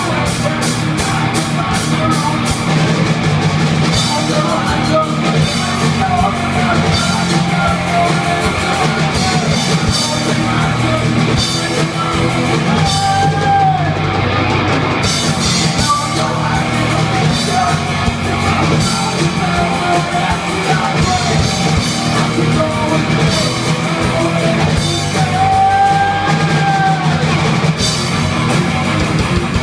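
Heavy metal band playing: distorted electric guitars and bass over a drum kit, with sung or shouted vocals. A pitch bends audibly about halfway through and again near the end.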